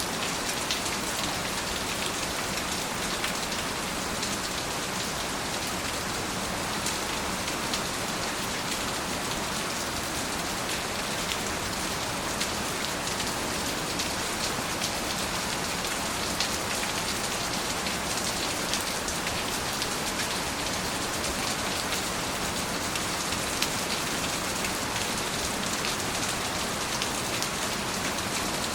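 Steady rain falling on a surface, a constant hiss with many individual drop ticks scattered through it.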